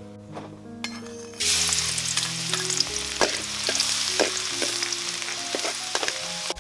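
Food sizzling in hot oil in a pan, starting suddenly about a second and a half in and staying loud, with scattered clicks of a utensil stirring it.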